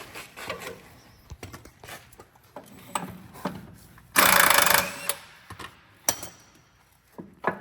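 A power impact wrench runs in one short burst, under a second long, about halfway through, amid scattered clicks and knocks of tools on metal. It is working a bolt during a truck shock absorber change.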